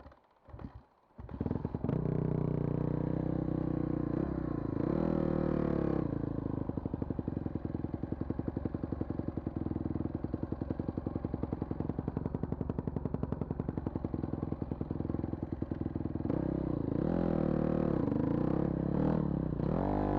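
Car engine starting after a few brief cranking bursts, then running steadily at idle, with a short rise in revs a few seconds in and more changes in revs near the end.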